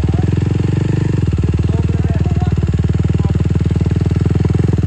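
Dirt bike engine idling steadily, its firing pulses even and unchanging.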